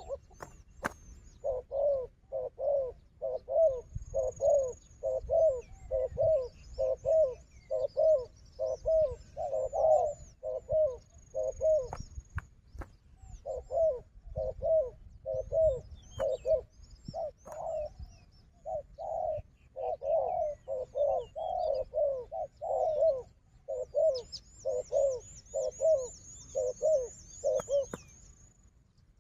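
Spotted doves cooing: a long run of short, low coo notes about two a second, broken by brief pauses. Small birds chirp faintly and high above, with a rapid high trill near the end.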